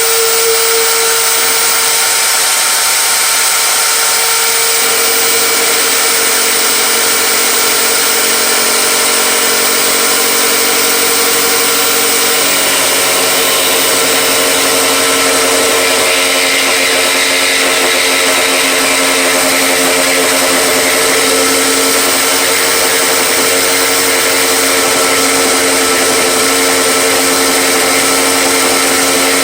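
Electric power tool motor running continuously while cutting wood, a loud steady whine whose pitch drops a step about five seconds in and again near the halfway point, as the tool is loaded in the cut.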